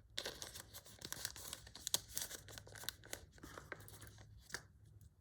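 Packaging being torn and crinkled by hand: a dense run of crackling and tearing that stops about four and a half seconds in.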